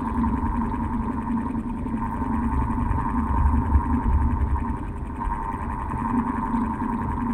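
Old electric fan running steadily with a constant hum, and a low rumble that swells and fades around the middle.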